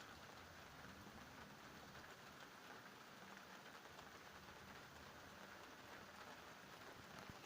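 Faint, steady rain falling in a thunderstorm, an even hiss with light patter.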